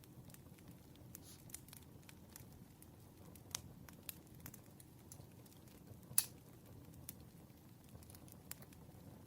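Campfire crackling: a low steady rush under scattered sharp pops and snaps, the loudest pop about six seconds in.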